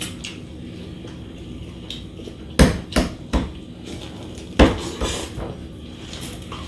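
Sharp knocks and clacks of food and dishes being handled at a table. There are three quick hits a little before halfway, then two more about a second later.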